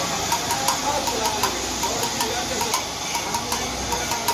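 A machine running with a steady, even ticking about five times a second, with voices faintly underneath.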